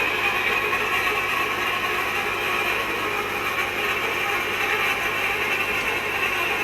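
Steady, continuous machinery noise, an even hum with no distinct strokes or clicks.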